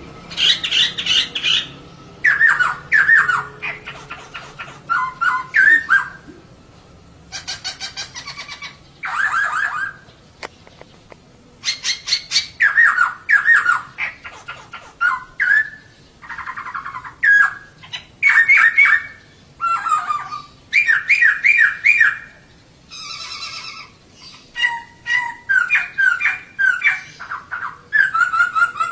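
Female poksay (laughingthrush) calling in a run of chattering phrases of quick repeated and gliding notes, each phrase a second or two long with short gaps between. This is the female call that bird keepers play to get a male poksay singing.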